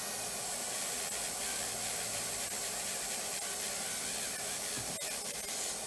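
Slow-speed dental handpiece running steadily with a hiss as a finishing disc or polisher contours and smooths a class 2 composite restoration on a tooth. A few faint clicks come about five seconds in.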